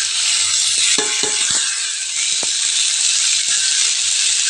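Hot oil in a kadai sizzling loudly as chopped vegetables, potato and chickpeas go into it, the sizzle jumping up at the start and holding steady. A few sharp knocks against the pan come between one and two and a half seconds in.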